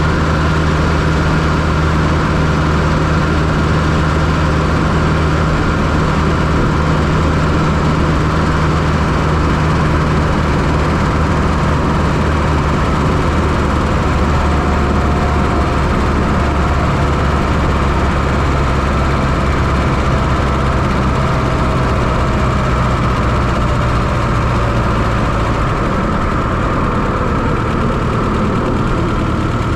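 Fiat Coupe 2.0 16V turbo four-cylinder engine running steadily, heard from inside the engine bay. Its pitch drops a little twice, with no revving.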